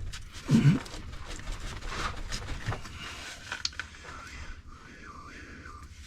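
A man grunting and breathing hard with effort while twisting an exhaust pipe into place, with a few light metal clicks and knocks from the pipe being worked.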